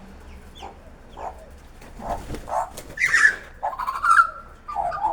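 A series of short animal calls, with a louder cluster about three seconds in and a longer, drawn-out whine-like call just after.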